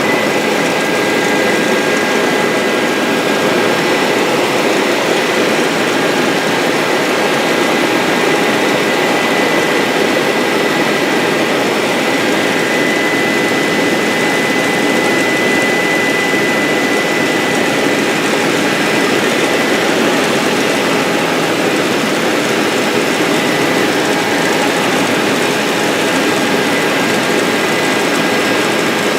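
Bell 407 helicopter in flight: the steady noise of its single Rolls-Royce 250 turboshaft engine and rotors, with thin steady whines over it and no change in level.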